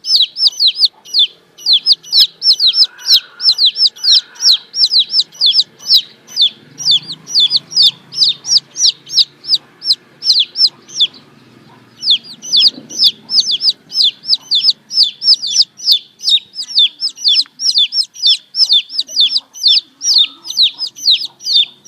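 Baby chicks peeping: a rapid, steady run of high, falling cheeps, about three or four a second, with a short pause about eleven seconds in.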